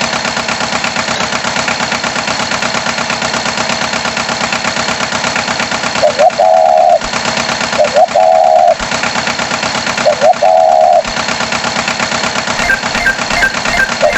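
Animated tractor engine sound effect running steadily with a rapid chugging pulse. About six, eight and ten seconds in come three loud wavering tones, each about a second long.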